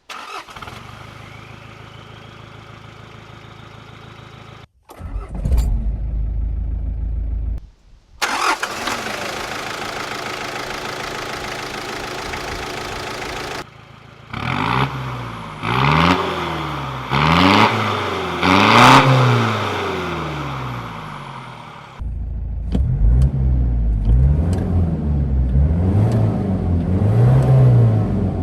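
Mitsubishi 4D56 2.5-litre intercooled turbo diesel four-cylinder of a 1990 Pajero, through a custom stainless steel exhaust, heard in several edited clips: running steadily at first, then blipped again and again, the pitch rising and falling with each rev. It has a deep note that sounds like a much bigger engine than an inline four.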